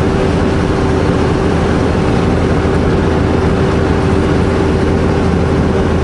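Semi truck's diesel engine running with road noise, a steady drone with a constant hum and no change in level.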